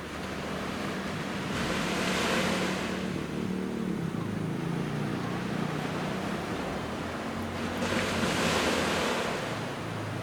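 Waves of the Genkai Sea washing onto the beach. The surf swells twice, about two seconds in and again near the end, over a low steady rumble.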